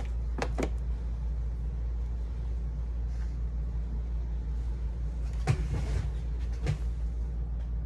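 A few light clicks and knocks of craft supplies being moved around on a desk during a search for a tool, the loudest about five and a half seconds in, over a steady low background hum.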